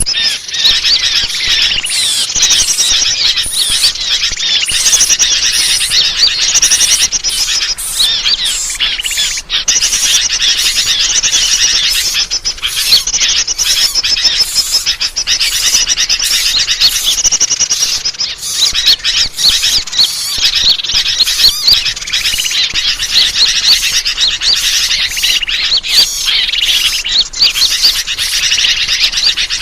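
Dense, unbroken chorus of many small birds chirping and twittering rapidly and high-pitched, a bird-lure recording made to call wild birds in.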